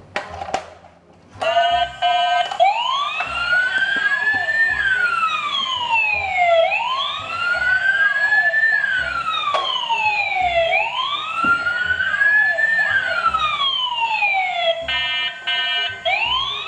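Electronic police-style siren wailing, slowly rising and falling about once every four seconds, with fainter overlapping copies of the wail. It starts after a few clicks and a short steady beeping tone, and breaks off briefly near the end for another beeping tone before the wail resumes.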